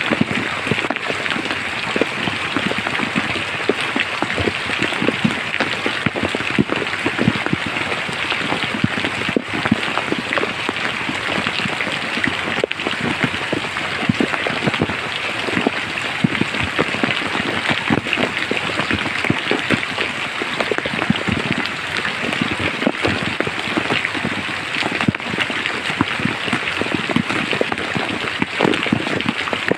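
Steady rain falling in a forest, a continuous hiss of rain with many separate drop hits.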